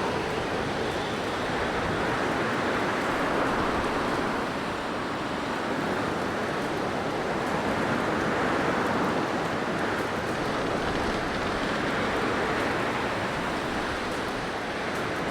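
Blizzard wind blowing as a steady rushing noise, rising and easing in slow gusts every few seconds.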